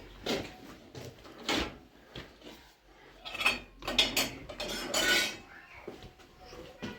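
Dishes and kitchen utensils clattering as they are handled: a string of irregular knocks and scrapes, busiest a little past the middle.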